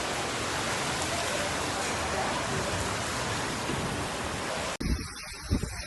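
Heavy storm rain pouring down in a dense, steady hiss. About five seconds in it cuts off abruptly to a quieter passage with low rumbles of wind on the microphone.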